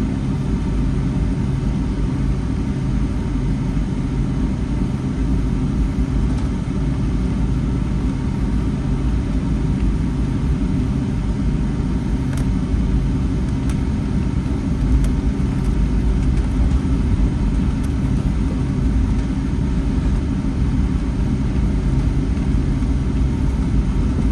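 Boeing 757-300's jet engines at taxi power, heard from inside the passenger cabin as a steady low rumble with a faint hum.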